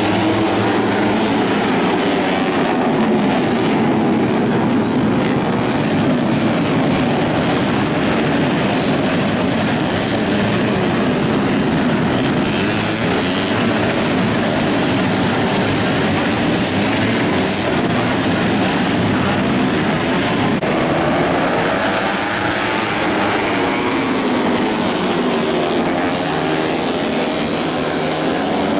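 Several racing motorcycle engines running at high revs, their pitches rising and falling and overlapping as the bikes pass.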